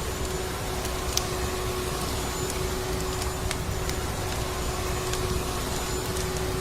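Steady drone of a vacuum cleaner running, with a constant hum under it, and a few sharp crackles scattered through.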